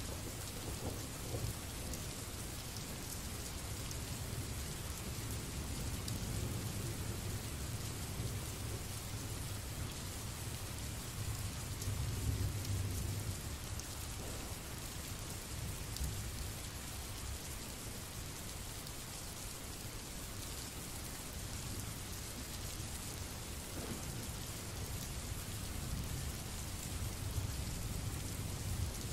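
Recorded rain sound effect: steady rainfall with a low rumble of thunder that swells about twelve seconds in and again near the end.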